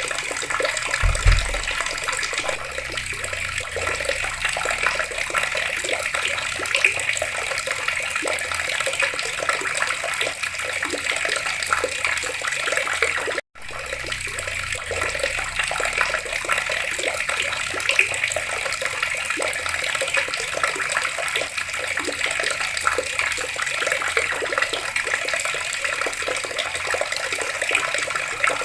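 Water running from taps, a steady splashing rush. A short low thump about a second in, and the sound breaks off for an instant about halfway through before resuming.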